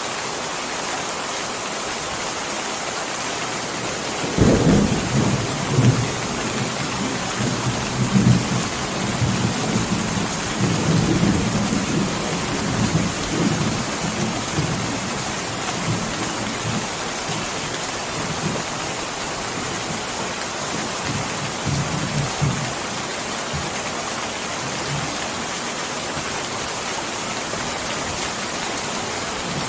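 Steady rain. About four seconds in, a thunder roll breaks in suddenly and rumbles on in several swells, dying away after about twenty seconds.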